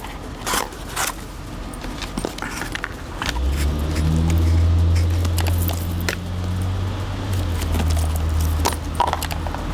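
Clicks and rattles of objects being handled, then from about three seconds in a steady low mechanical hum that starts up and keeps going.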